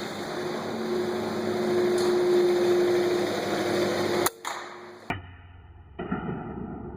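Steady hum of barn ventilation fans with a low pitched drone, broken by a sharp crack about four seconds in. The hum then drops away abruptly, and another sharp snap follows about a second later.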